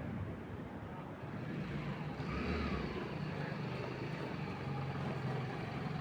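Steady low drone of a motor vehicle engine over a haze of noise, swelling about two seconds in as it draws closer.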